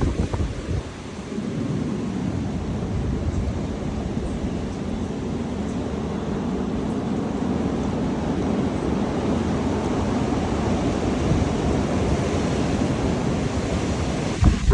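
Strong wind gusting hard against the microphone: a loud, steady low rush that builds slowly, with sharper buffeting blasts right at the end.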